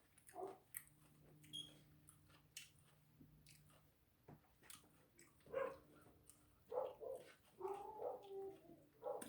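Faint chewing and mouth clicks while eating a pulled chicken sandwich, with a few short muffled voiced sounds in the second half, over a steady low hum.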